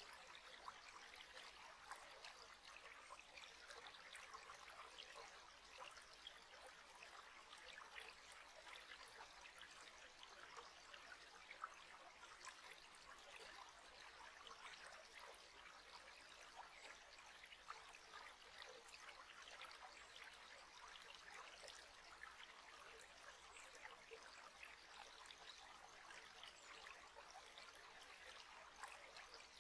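Faint, steady trickle of running water, like a small stream, with many tiny splashes and drips.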